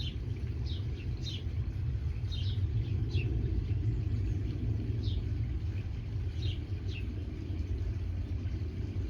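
A steady low rumble, with a bird chirping repeatedly over it in short, quick downward notes.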